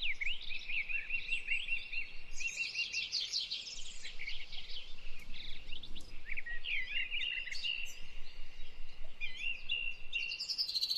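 Several songbirds singing together: rapid chirps and trills overlapping with held whistled notes, continuous throughout.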